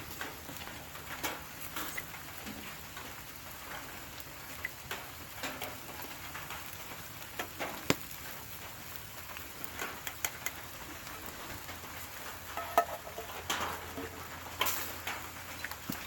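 Steady rain falling on a campfire cooking setup, with food sizzling and scattered sharp pops and clicks, the loudest about halfway through and near the end.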